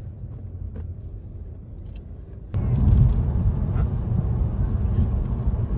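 Low steady rumble, stepping up suddenly to a louder level about two and a half seconds in.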